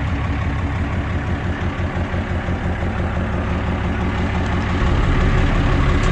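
Caterpillar C13 diesel engine of a Kenworth W900B dump truck idling steadily, growing louder about five seconds in.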